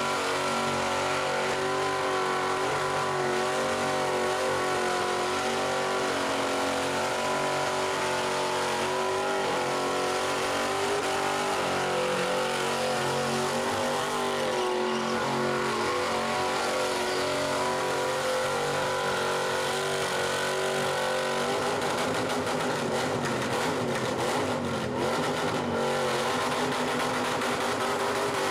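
Old Daimler sedan's engine held at high revs during a burnout, its rear tyres spinning in smoke. About twenty seconds in, the engine note starts to waver as the revs rise and fall.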